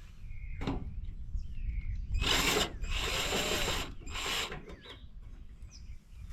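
Tool noise from work on the metal of a scrapped air-conditioner condenser: three short noisy bursts around the middle, the longest about a second.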